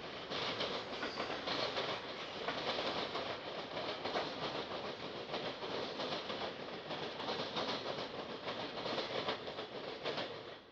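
Intermodal freight train cars, trailers on flatcars and double-stack container cars, rolling past with a steady rumble of wheels on rail and many sharp clicks from wheels crossing rail joints.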